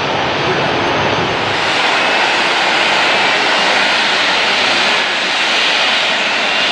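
Jet airliner engines making a loud, steady rushing noise, with a faint whine that slowly rises in pitch.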